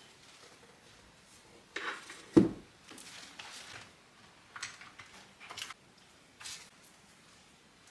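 Household objects being handled in a small room: a few short clatters and rustles, with one dull thump about two and a half seconds in.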